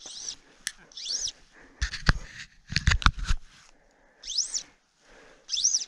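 A bird calling four times, each a short high note that rises and falls. Between the calls, a few dull thumps and rustles, about two and three seconds in.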